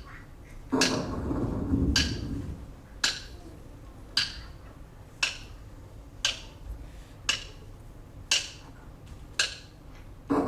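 A steady beat of sharp, wood-block-like knocks, about one a second, with a low rumble for a second or so near the start.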